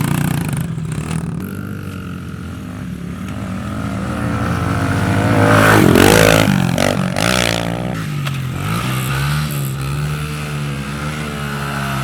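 A vehicle engine revving up and down, getting louder to a peak about six seconds in, then running on with a wavering pitch.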